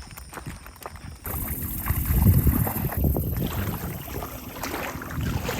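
Wind rumbling on the microphone over water sounds at a lake, starting abruptly about a second in, after a few faint clicks.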